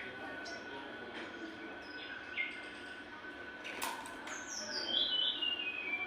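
Jongkangan songbird singing: scattered short chirps, then near the end a quick run of high whistled notes falling in pitch.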